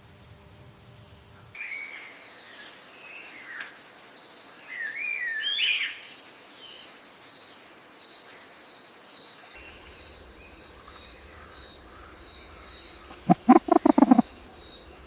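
Rainforest birds calling in short whistled, gliding notes over a steady jungle background. Near the end comes a loud, quick run of about six harsh notes.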